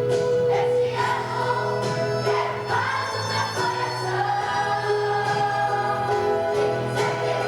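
A choir singing a song with instrumental accompaniment, voices holding long notes.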